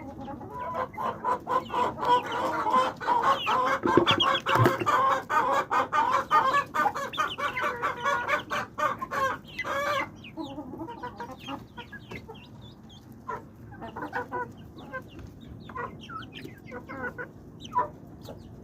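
Flock of chickens clucking, many calls overlapping densely for about the first ten seconds, then thinning out to scattered clucks.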